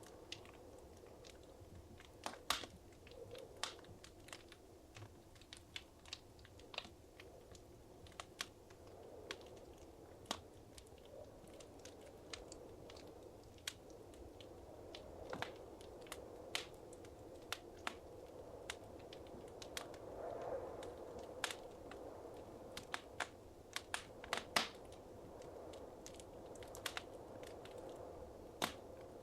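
Wood fire crackling in a fireplace: irregular sharp pops and snaps over a soft, steady low rush of burning.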